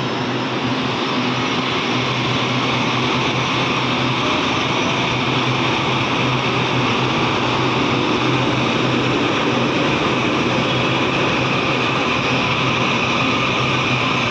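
Steady running noise of a Taiwan Railway train at a station, with a constant low hum under it.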